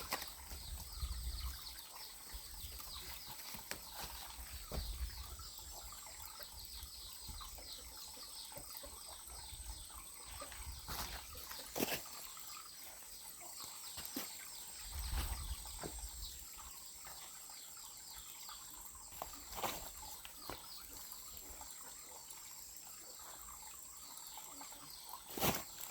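Rural outdoor ambience: a steady high-pitched hum with rapid chirping over it, and a few sharp clicks or knocks spread through.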